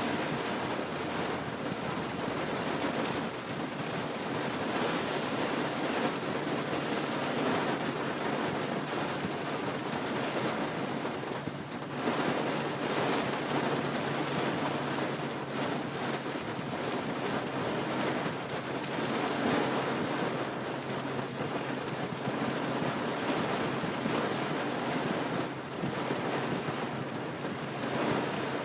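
Heavy rain falling during a rainstorm: a steady, dense hiss that swells and eases, with a brief lull about halfway through.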